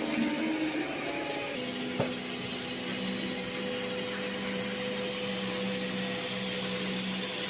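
CO2 laser cutter running: its gantry stepper motors whine in steady tones that shift pitch about one and a half seconds in as the head changes speed, over a steady rush of air. A single sharp click about two seconds in.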